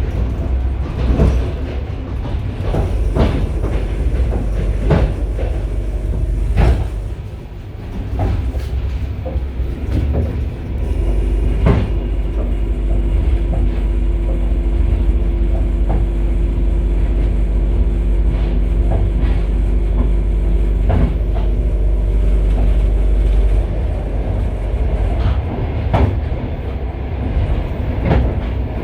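Passenger carriage running on the rails, heard from inside the vestibule: a steady low rumble with irregular clacks of the wheels over rail joints and points. A steady hum joins in from about a third of the way through and fades out near the end.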